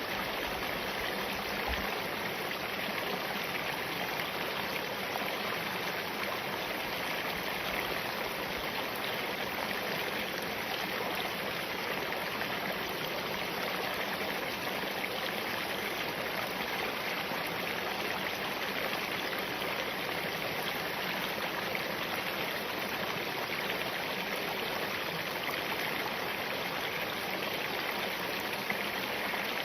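Spring-fed mountain stream flowing steadily over and between rocks.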